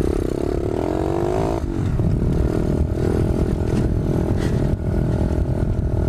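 125cc pit bike engine running while being ridden: it revs up and down in the first second and a half, then holds a steadier pitch.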